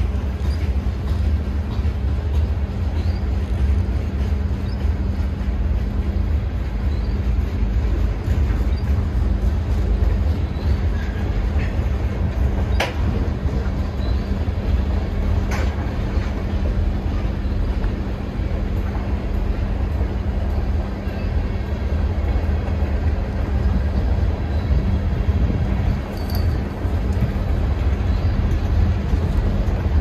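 Freight train with two locomotives reversing slowly past, its boxcars rolling by with a steady low rumble and hum. Two sharp knocks come about halfway through.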